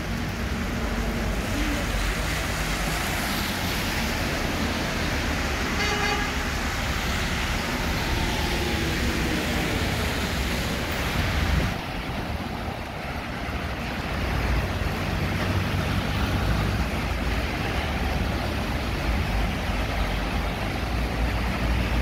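Heavy rain falling on a wet city street, a steady hiss, with a double-decker bus and cars driving through the water with engine rumble and tyre swish. A short vehicle horn toot sounds about six seconds in.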